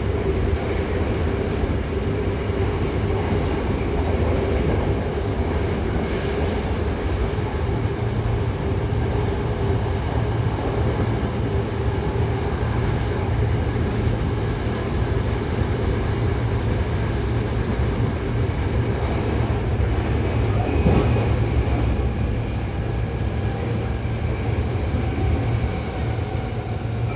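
Hankyu 8000-series electric train running, heard from inside the car: a steady rumble of wheels and running gear, with a motor tone that fades over the first few seconds. There is one brief knock about twenty seconds in.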